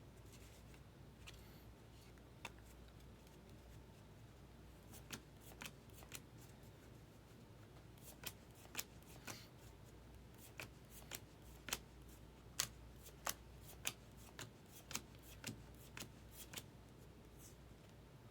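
2024 Topps Heritage baseball cards being flicked through one by one in the hands: a string of light, sharp clicks, sparse at first and then coming about every half second through the second half.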